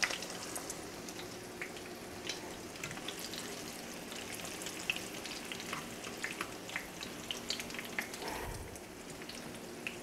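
Egg-and-flour battered cardoon stalks frying in shallow vegetable oil in a skillet: a steady sizzle dotted with small crackles and pops. A soft low bump a little after eight seconds in.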